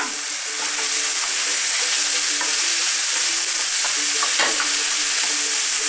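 Diced chicken breast sizzling in olive oil in a frying pan, stirred with a wooden spatula that scrapes the pan now and then.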